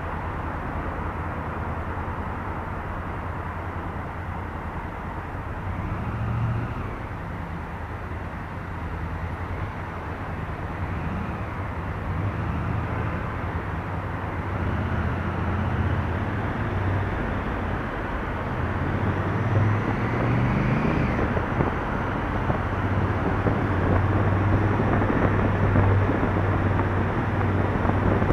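Honda Africa Twin CRF1000L parallel-twin engine running under way, mixed with wind and road rush. The engine note shifts a few times and grows louder in the second half.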